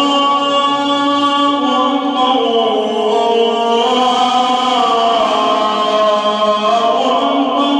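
A muezzin's solo male voice chanting the adhan, the Islamic call to prayer, in one long melismatic phrase with slow rises and falls in pitch, the opening 'Allahu akbar'.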